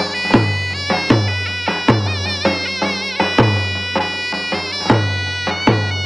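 Zurna, the Turkish double-reed shawm, playing a loud, held folk melody with wavering ornaments over a davul bass drum, which strikes heavily about every three-quarters of a second.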